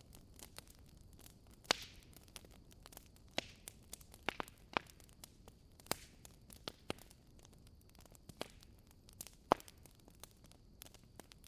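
Wood fire in a fireplace crackling, with irregular sharp pops over a low steady hiss; the loudest pops come about two seconds in and again near ten seconds.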